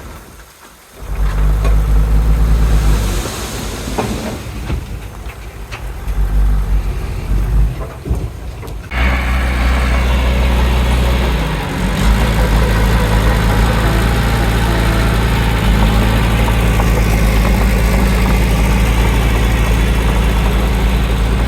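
Heavy diesel engines of earthmoving machinery running under load. The sound drops briefly near the start, changes abruptly about nine seconds in, and from about twelve seconds on settles into a steady loud drone.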